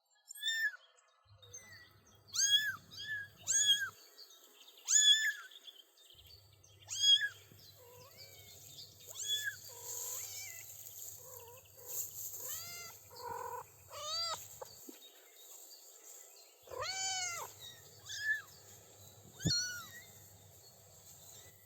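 Three-week-old kittens meowing over and over in short, high-pitched cries, with one lower, longer meow about seventeen seconds in.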